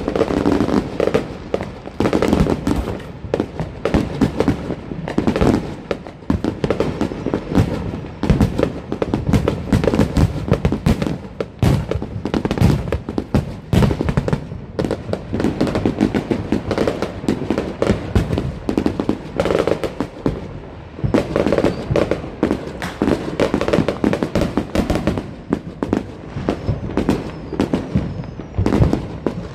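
Fireworks and firecrackers going off non-stop, many overlapping bangs and crackles every second with no break.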